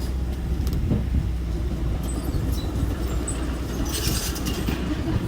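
Diesel engine of heavy earthmoving machinery running steadily with a low rumble, with metallic clanking and squeaking about four seconds in.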